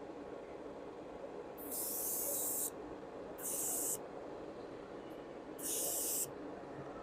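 Airbrush spraying paint in three short hissing bursts, the first about a second long and the other two about half a second each, over a steady low background noise.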